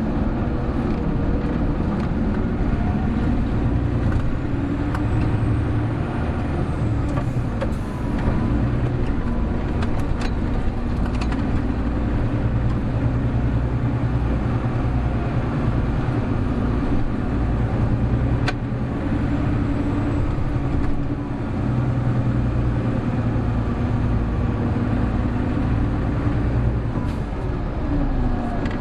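Hino Blue Ribbon City Hybrid city bus (HU8JLFP) running on the road, heard from inside the cabin: a steady diesel drone with a gliding drivetrain whine. The note dips briefly twice, about eight seconds in and again about twenty-one seconds in, and there are a few sharp rattling clicks.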